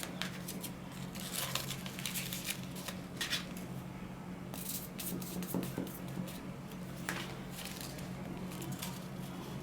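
Paper being cut with scissors: irregular short snips and paper rustles, over a steady low hum.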